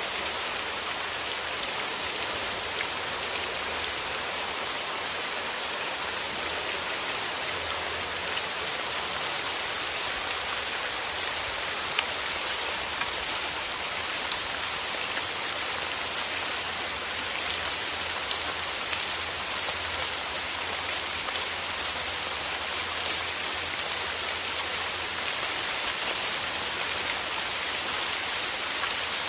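Steady rain falling, a dense even hiss with many small drop ticks and a faint low rumble underneath.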